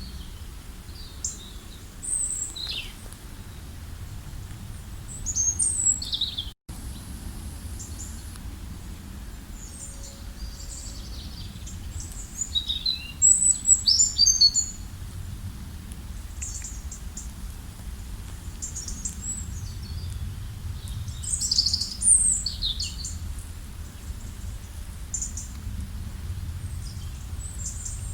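Several songbirds chirping and trilling in short, scattered calls, over a steady low outdoor rumble. The sound cuts out for an instant about a quarter of the way through.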